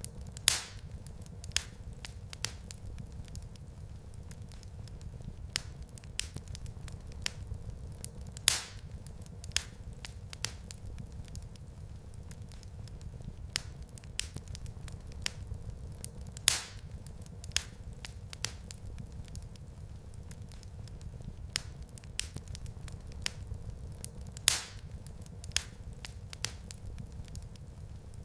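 Wood fire in a fireplace crackling, with a steady low rumble, many small snaps, and a louder sharp pop about every eight seconds.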